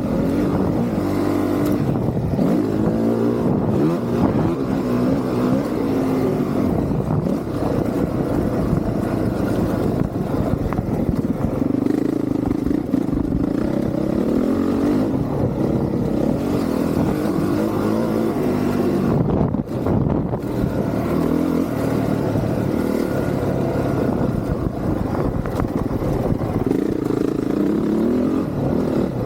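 Honda CRF450R's single-cylinder four-stroke engine under hard riding, its pitch climbing and dropping again and again as the throttle is opened and shut, with a brief drop-off about two-thirds of the way through.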